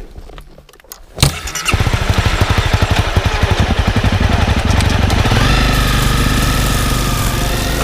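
Honda CRF250 single-cylinder dirt bike engine starting about a second in with a click, then running with rapid, even firing pulses.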